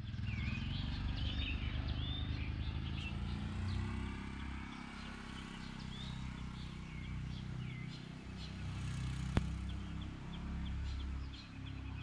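Birds chirping and calling over a steady low rumble, with a single sharp click about nine seconds in.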